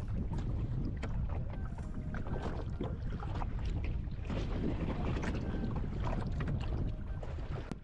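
Wind buffeting the microphone with water slapping and sloshing against the jet ski on the open sea, as a steady rumble broken by irregular splashes and knocks.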